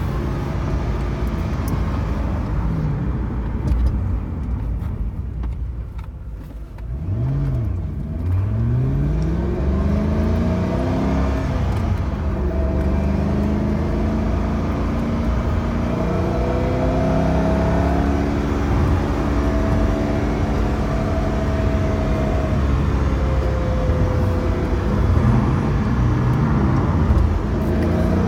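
Ford GT's supercharged V8 heard from inside the cabin while driving. The engine note dips around six seconds in, then climbs steeply as the car accelerates, and keeps rising and easing off through the rest.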